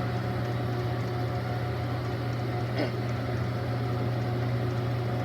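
Small lathe running at a steady high speed through a Worthington All-Drive variable-speed unit: a constant machine hum.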